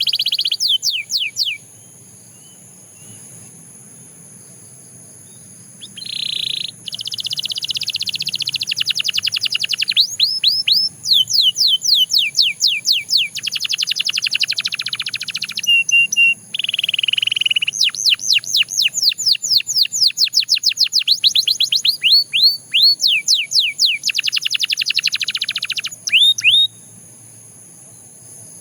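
Canary singing in long, fast trilled phrases of rapidly repeated high sweeping notes. A brief phrase opens, then there is a pause of about four seconds, then some twenty seconds of near-continuous song that stops shortly before the end. A faint steady high-pitched tone runs underneath.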